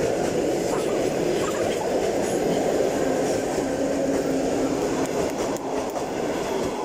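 Electric commuter train passing at very close range: a steady rumble of wheels on rails and rushing air, easing a little near the end as the last car goes by.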